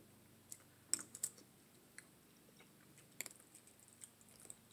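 Quiet eating sounds: a scatter of soft, short clicks and smacks from chewing curried neck bones, with a few light ticks of a fork and fingers picking at the meat.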